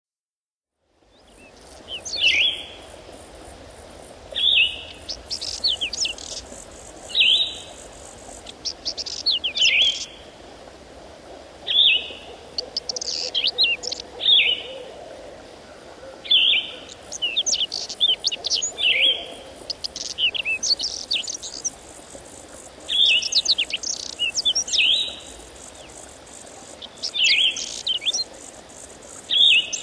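A songbird singing short, bright phrases that drop in pitch, repeated every two to three seconds, over a faint steady high hiss.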